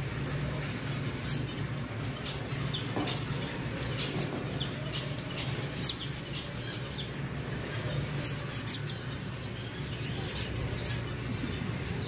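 Birds chirping: short, high, downward-sweeping chirps, some single and some in quick runs of three or four, over a steady low hum.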